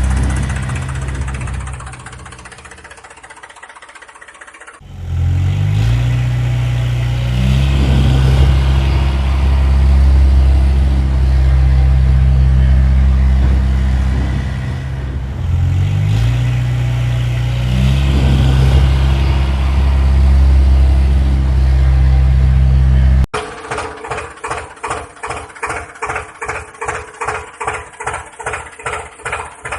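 An engine running steadily, with two brief revs, broken by sudden cuts. Near the end it gives way to a rhythmic chugging of about three beats a second.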